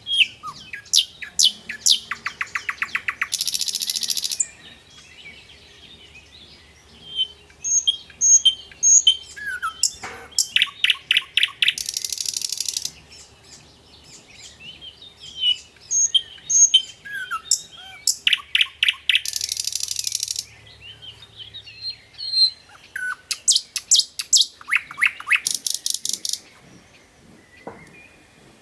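Songbird singing a repeated phrase: a run of rapid notes that speeds up into a buzzy trill lasting about a second. The phrase comes four times, with short chirps between.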